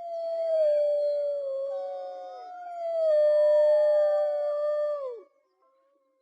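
Wolves howling in chorus: several long, overlapping howls at different pitches that slide slowly and drop away together about five seconds in.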